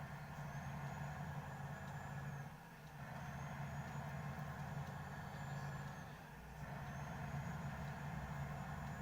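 Car heard from inside while driving in the rain: a steady low engine hum under road and tyre noise. A faint high whine and a brief dip in the noise recur about every three seconds.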